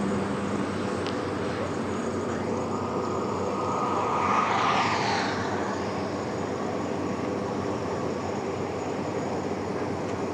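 Steady noise of heavy diesel vehicles and machinery running, with a louder rushing swell about four seconds in that falls away.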